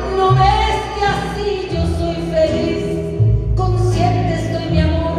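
Live band music playing a ballad, with a held melody line over a steady bass.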